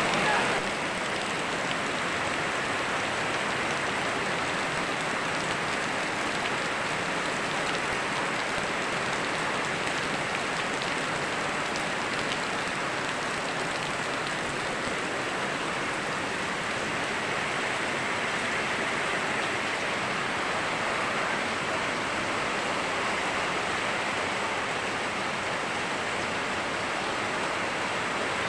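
Steady rain mixed with a flowing river: an even, unbroken hiss of falling and running water.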